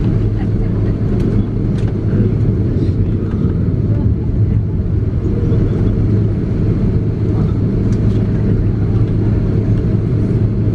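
Inside the cabin of an Airbus A330-300 taxiing after landing: a steady low rumble with a strong hum from its Pratt & Whitney PW4168A engines at idle, and a few faint clicks and rattles.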